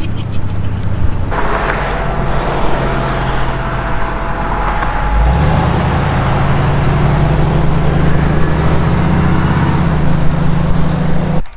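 Loud motor vehicle engine running close by, a steady low drone that steps up in pitch about five seconds in and cuts off abruptly near the end.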